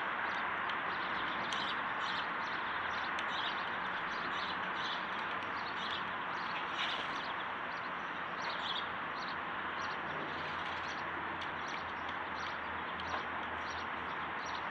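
Small birds chirping with many short, high calls scattered throughout, over a steady background hiss.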